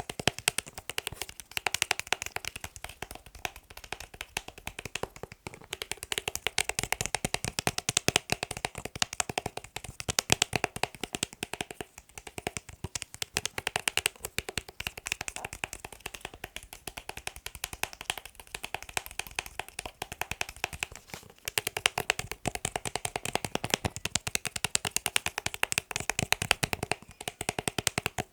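Fast ASMR tapping on a hard object: a dense, rapid run of sharp taps with a few brief breaks.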